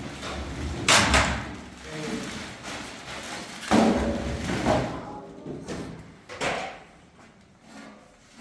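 Household knocks and bangs: a sharp one about a second in, a louder one near four seconds, and a third past six seconds, each dying away briefly.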